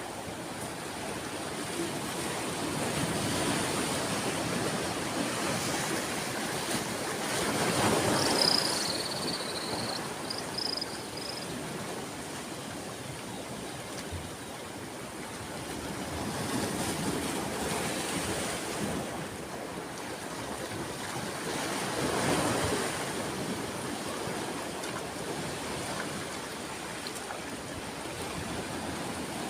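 Ocean waves washing onto a shore, a steady rush that swells and falls back several times, the biggest surge about eight seconds in. A few short high chirps sound over it around the biggest surge.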